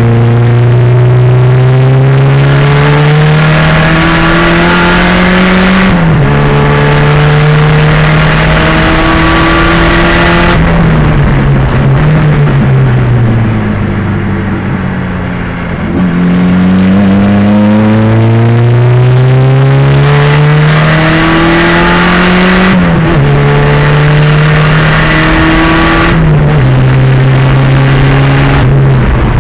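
Turbocharged 2.0-litre engine of a 1987 Pontiac Fiero race car at full throttle, its pitch climbing and dropping sharply at each upshift. Partway through, the engine note falls away as the car slows for a corner, then climbs through the gears again with more shifts near the end.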